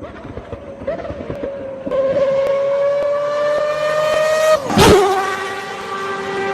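Mazda 787B's four-rotor rotary engine at high revs, its pitch climbing steadily. About 4.7 seconds in it cuts out for an instant on an upshift, a sharp crack sounds, and it carries on at a clearly lower pitch in the next gear. The drop-out is the flat-shift ignition cut.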